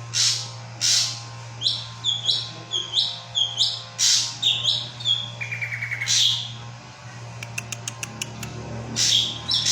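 Drongo singing: harsh rasping calls about a second apart, a run of quick down-slurred whistles, a short fast trill, and a burst of rapid clicks later on, over a steady low hum.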